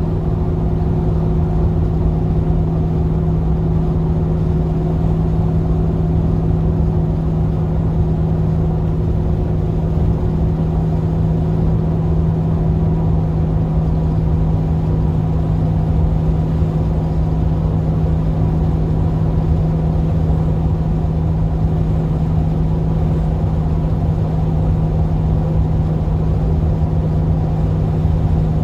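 GMC Vandura / Chevrolet G20 van's V8 engine running at a steady, even pitch while the van drives at constant speed, with low road rumble underneath.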